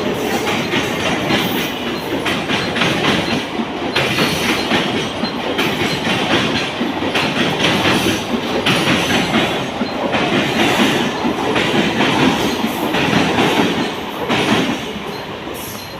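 Passenger train running past, its wheels clattering over the rail joints in a repeating rhythm. It grows quieter near the end.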